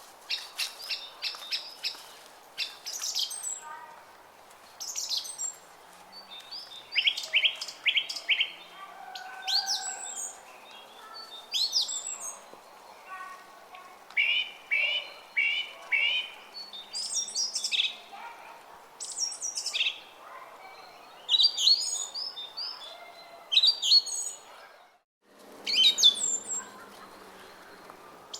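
Small songbirds chirping and singing in quick repeated short phrases over the faint steady murmur of a stream. About three-quarters of the way through, the sound drops out for a moment and resumes with a lower water rush.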